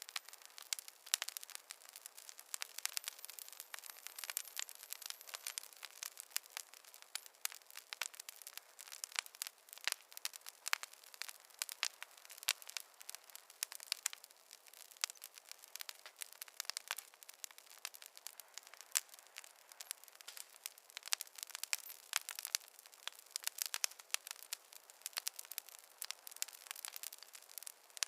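Fireplace fire crackling: a dense, irregular run of sharp pops and snaps over a soft hiss.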